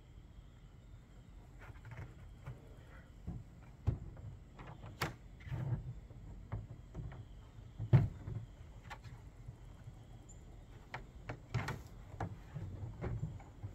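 Hard plastic parts of a deck box knocking and clicking as they are handled and fitted together, at irregular intervals, with one louder knock about eight seconds in.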